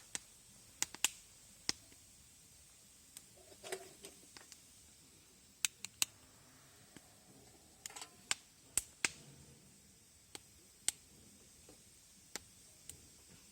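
Wood campfire crackling: irregular sharp pops and snaps, more than a dozen, over a faint steady background.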